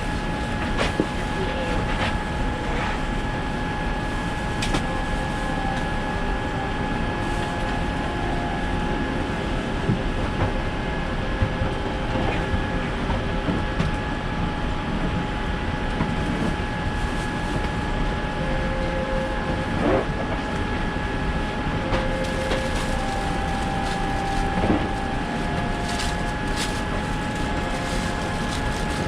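Steady cabin noise inside a Boeing 787-9 airliner, with a thin steady whine over it and scattered clicks and knocks.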